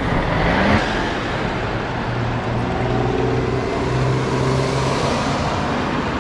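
Car engine running with road noise. Its pitch rises during the first second, then holds steady.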